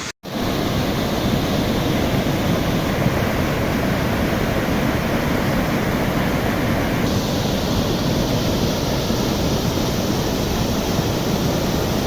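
Swollen floodwater rushing in a mountain river: a loud, steady noise of fast water that never breaks.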